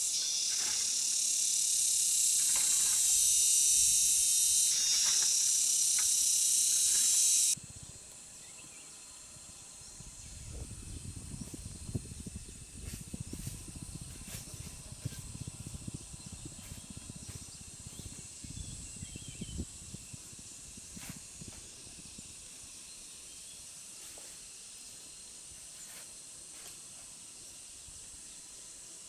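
A loud, steady hiss that cuts off suddenly about seven seconds in, followed by faint rustling and scattered clicks over a faint, steady high background tone.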